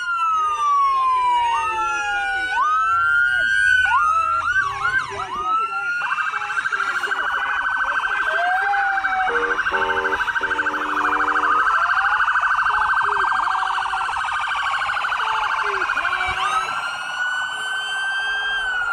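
Several emergency-vehicle sirens sounding at once. They give slow rising-and-falling wails, switch to a fast warbling yelp from about six seconds in until near the end, and return to a wail. A horn blares for about two seconds near the middle.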